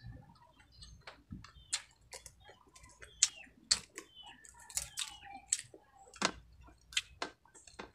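Close-up chewing of crispy deep-fried baby crabs, the shells crunching in irregular sharp cracks, loudest a little past three seconds in.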